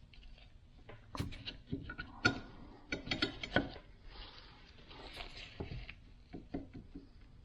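Scattered metal clicks and light knocks of parts and tools being handled on a Toyota FJ40 steering box, with a soft scraping rustle about four to six seconds in, while an adjusting shim is taken out to cut the play between the gears.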